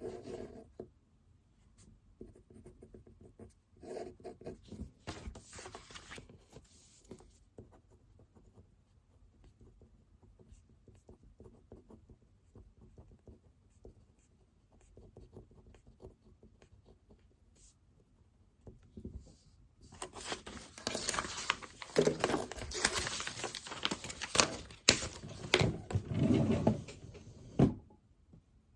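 Pen writing on paper, faint scratching strokes. About two-thirds of the way in, louder rustling and handling with sharp knocks takes over for several seconds.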